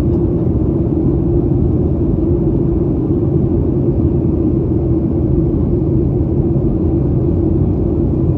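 Steady cabin drone of a Boeing 737-800 in flight, its CFM56-7B engines and the airflow past the fuselage heard from a window seat, with a strong low hum over a deep rumble.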